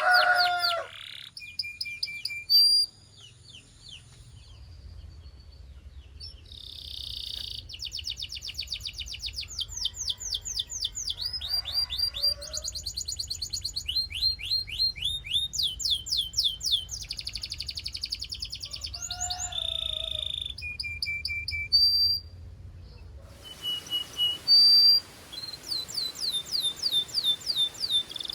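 Belgian canaries singing: fast trills of rapidly repeated high notes, delivered in phrases separated by short breaks.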